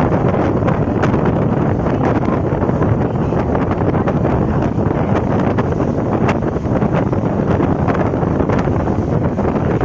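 EMU local train running between stations: a steady loud rumble of wheels on the track, with wind buffeting the microphone and scattered sharp clicks throughout.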